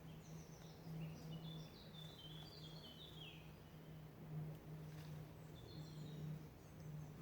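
Faint birdsong: a small songbird sings quick runs of chirped notes, some sliding downward, in the first half and again briefly near the end, over a steady low hum.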